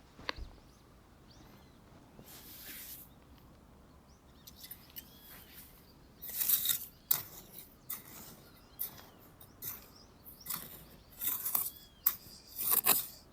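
A bird calling a few times with short arched whistled notes, among repeated short scraping or rustling noises that grow busier about halfway through.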